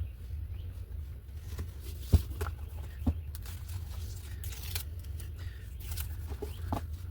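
Small taps and knocks with short rustles of paper and craft materials being handled on a work table, over a steady low hum. The two sharpest knocks come about two and three seconds in.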